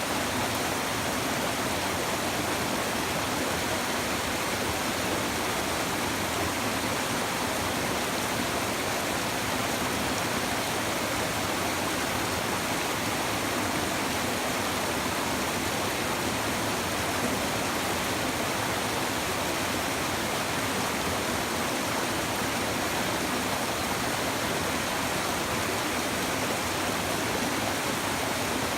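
Shallow river babbling over stones, a steady even rush of flowing water.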